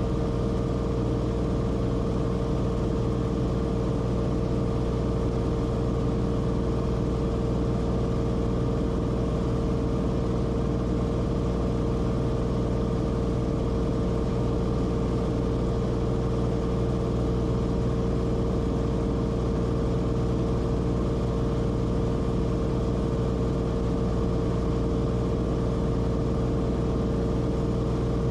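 Cessna Corvalis TTX's turbocharged six-cylinder engine and propeller running steadily, heard as a constant drone inside the cabin, with a strong steady hum.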